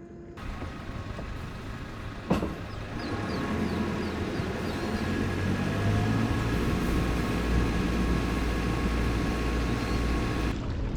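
A sailboat's inboard engine running steadily, with a sharp knock about two seconds in. The engine sound grows louder and deeper about six seconds in.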